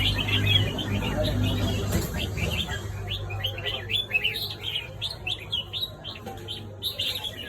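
Red-whiskered bulbuls chirping in a rapid, continuous run of short calls that grows fainter in the second half, over a low steady hum that is strongest in the first few seconds.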